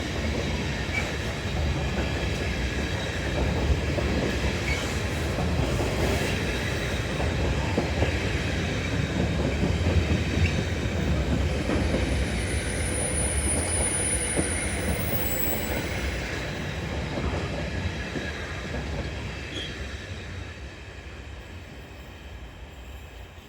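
Freight train hauled by a Class 66 diesel locomotive rolling past on the rails: a steady rumble of the wagons with a thin high wheel squeal about halfway through, then dying away over the last few seconds.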